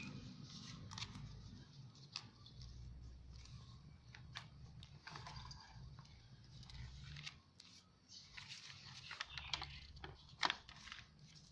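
Faint rustling and light clicks of paper and card being handled, as journal pages, tags and pockets are turned and lifted.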